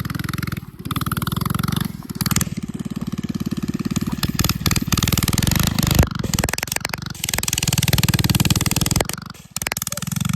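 Mini bike's small engine running under part throttle as it is ridden through snow, with the revs dropping briefly a few times. Sharp clicks and rattles come near the middle.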